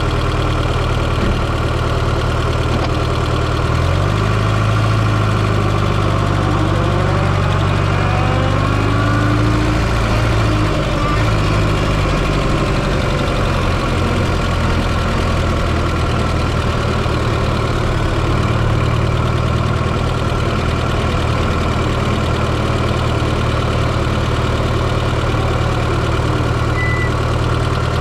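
Fiat Coupé 2.0 16V turbo four-cylinder engine running steadily, heard close up from inside the engine bay. Its low hum shifts in pitch about four seconds in, and a few faint rising whines come through between about six and ten seconds.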